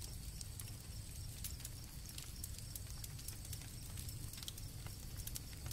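Campfire crackling with frequent small sharp pops, over a steady background of crickets chirping.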